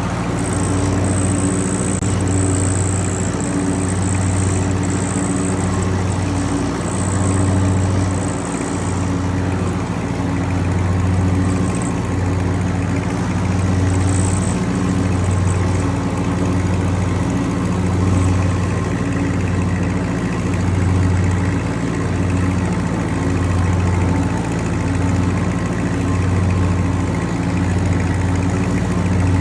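1963 Ford 4000 tractor engine running steadily while mowing, its low note throbbing slowly and evenly. A faint high whine comes and goes in the first nine seconds and briefly again later.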